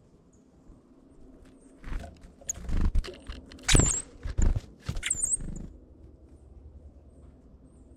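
Birds on a wildlife camera making a run of irregular taps and scuffles close to the microphone for a few seconds, with two short high chirps among them. The start and end are quieter.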